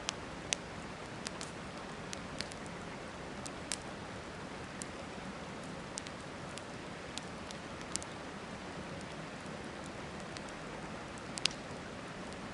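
Wood campfire crackling, with sharp irregular pops and snaps, the loudest near the start and about a second before the end. Beneath it runs a steady rushing wash of river water.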